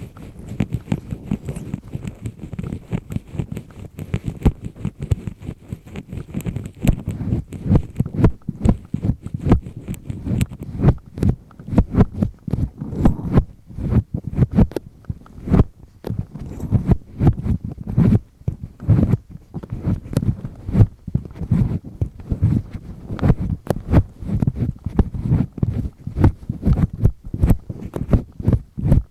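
Double-disc ear pick scraping firmly inside an ear canal: a continuous run of short, irregular scratching and rubbing strokes.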